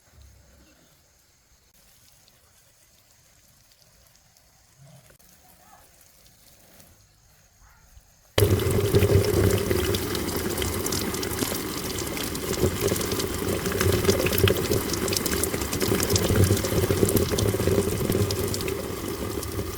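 Faint quiet for about eight seconds, then water suddenly starts running or pouring loudly and keeps going steadily.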